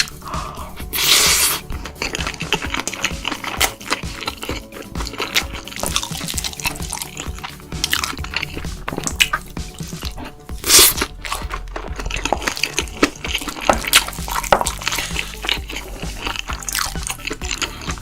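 Close-miked eating of bibimbap: wet chewing and crunching with many small clicks of a utensil against the bowl, and a couple of short scraping rushes.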